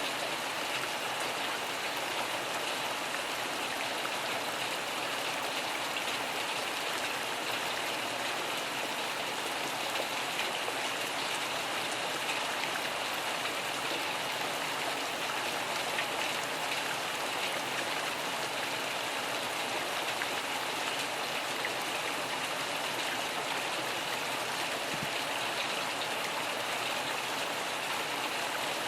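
Steady rain falling: an even hiss with faint scattered drop ticks and no thunder.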